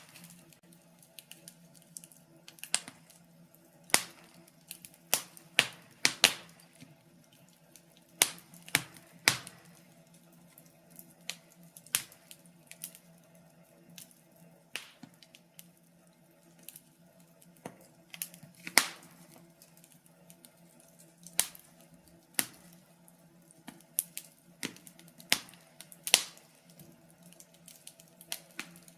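Wood fire crackling: irregular sharp pops and snaps, a few every couple of seconds, over a faint low steady hum.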